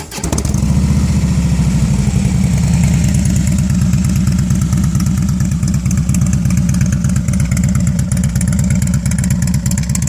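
Harley-Davidson Softail Slim S V-twin catching right at the start, then idling steadily through a Rinehart 2-into-1 exhaust with a loud, thick, rumbly, evenly pulsing low note.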